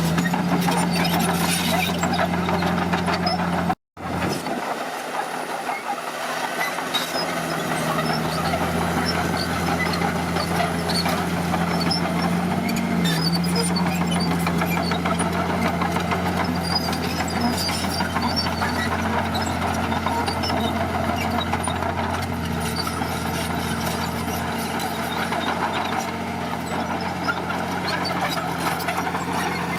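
Heavy diesel engine of earthmoving equipment running steadily with a low hum, its pitch shifting slightly now and then. The sound cuts out for an instant about four seconds in.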